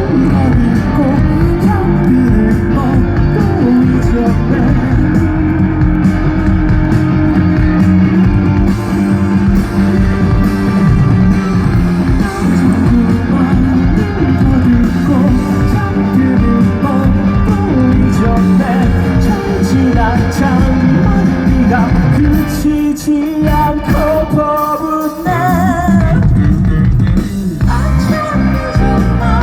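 Live rock band playing loud, with distorted electric guitars, bass, drums and a male singer. The low end thins out briefly about three-quarters of the way through.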